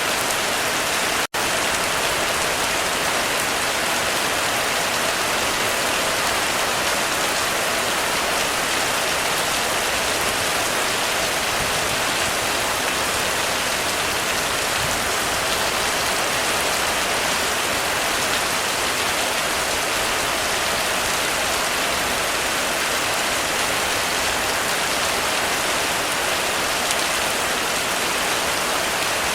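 Heavy rain falling steadily on a roof, a dense, even hiss. The sound cuts out for an instant about a second in, then carries on unchanged.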